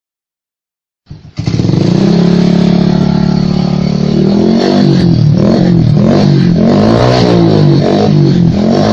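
Suzuki Shogun 125's single-cylinder four-stroke engine running through an aftermarket racing exhaust. It comes in abruptly about a second in and idles steadily, then from about four seconds in it is revved up and down over and over.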